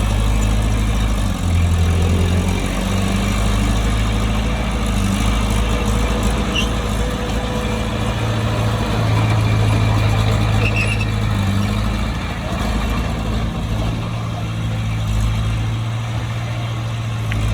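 Bulldozer's diesel engine running steadily, a low drone that rises and dips a little in loudness.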